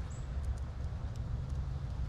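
Wind buffeting a GoPro's microphone: a steady low rumble, with a few faint clicks over it.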